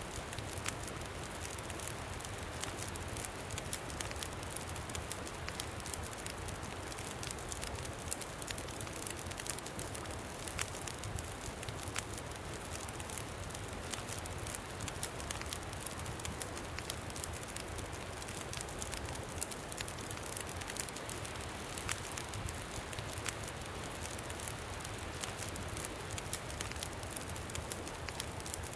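Campfire crackling: many scattered sharp pops over a steady hiss, with a low rumble of wind underneath.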